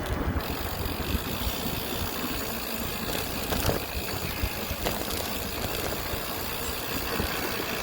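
Wind buffeting the microphone and road noise from a moving bicycle, a steady rumbling hiss with a couple of light clicks in the middle.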